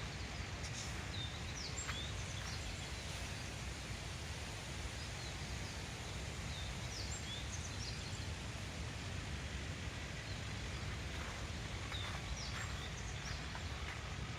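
Outdoor ambience: a steady hiss with brief high-pitched bird chirps coming in three short clusters, near the start, around the middle, and near the end.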